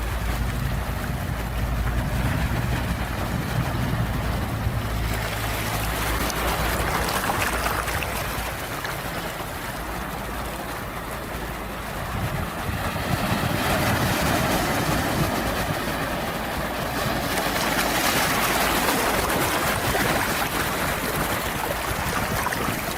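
Sea waves surging and washing in, swelling and easing every few seconds. A low rumble sits under them for the first several seconds.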